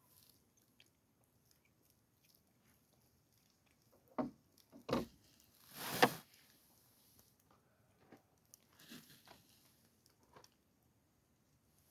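A person eating close to the microphone: a few loud crunching bites about four to six seconds in, the loudest near six seconds, then softer chewing noises.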